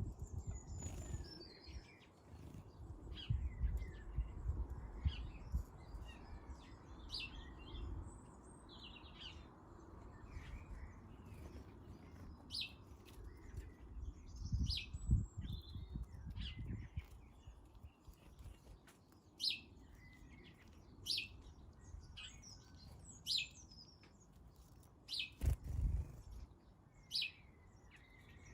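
Small garden birds chirping at a feeder: many short, separate high chirps. A few low thumps come in between, about three to five seconds in, around fifteen seconds and near the end.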